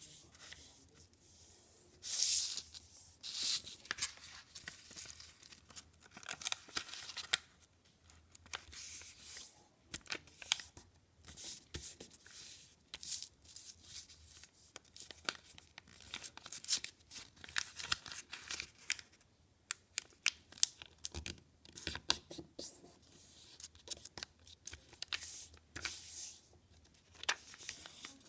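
A sheet of paper being handled and folded into a paper airplane: irregular rustling swishes and sharp crackles of the paper.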